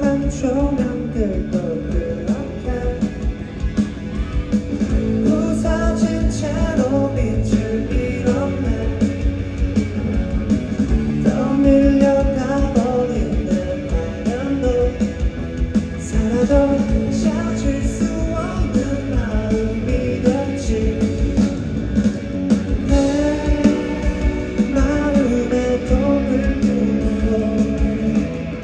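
Live rock band playing loudly, with electric guitar, bass and drums under a singing voice.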